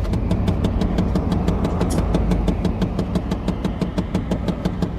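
Pickup truck engine idling just after being started, with a rapid, steady ticking or knocking of about eight clicks a second over its low running sound.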